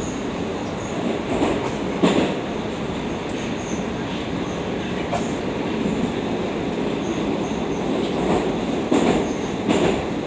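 Moscow Metro 'Oka' (81-760/761) train running between stations, heard inside the car: a steady rumble of wheels on rail, with a few louder knocks about two seconds in and twice near the end.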